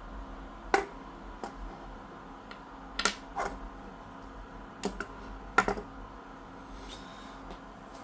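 Scattered sharp taps or clicks, about eight of them at irregular intervals, some in quick pairs.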